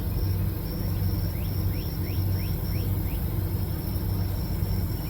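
Steady low machine hum running throughout, with a thin high steady tone above it and a run of short rising chirps, about two a second, in the middle.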